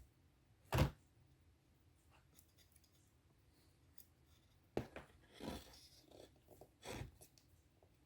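Small metal and plastic gear lever tower parts handled and fitted on a workbench: one sharp knock about a second in, a cluster of clicks and a brief scrape around five seconds in, and another knock near the end.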